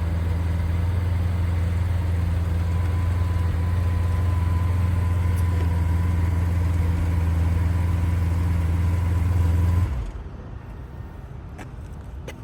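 A vehicle engine idling steadily with a loud low drone, then switched off suddenly about ten seconds in; a few faint clicks follow.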